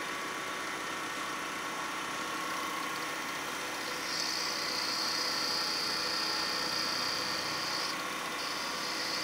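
Wood lathe running steadily with a motor hum. About four seconds in, a turning tool starts cutting the spinning pine with a high hiss that breaks off briefly near the end and then starts again.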